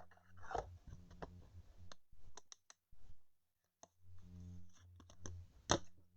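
Baseball trading cards being handled and flipped through by hand: scattered light clicks and ticks of card against card, with a sharper tick near the end.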